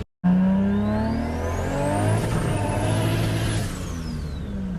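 Turbocharged Toyota 2JZ straight-six running hard under load. A high turbo whistle climbs in pitch from about a second in, holds, then falls away near the end. The sound starts abruptly after a brief silence.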